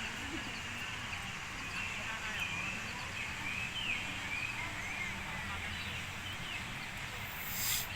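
Small birds chirping in repeated short, quick calls over a steady outdoor hiss, with a brief sharp rushing noise near the end.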